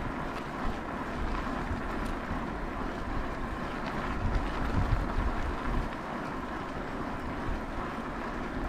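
Wind buffeting the microphone of a camera on a moving e-bike: a steady rushing noise with an uneven low rumble, gustier about four to five seconds in.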